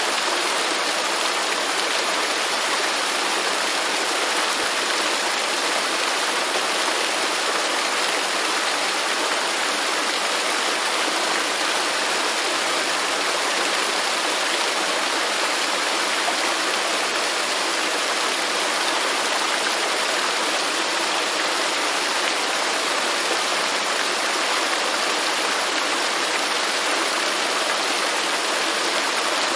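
Waterfall: a steady, unbroken rush of falling water, its hiss spread high with little deep rumble.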